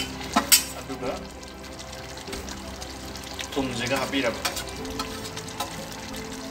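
Chicken gravy sizzling in an aluminium pot on the stove, with two sharp clicks about half a second in as a steel plate knocks against the rim while spices are tipped in. Background music plays, and a voice is heard briefly about four seconds in.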